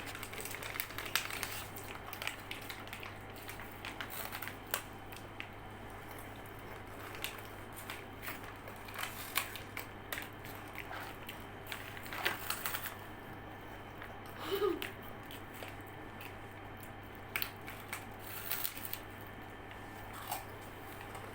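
Scattered short crinkles and crunches from snack packets being handled and crunchy snacks being eaten, over a faint steady hum.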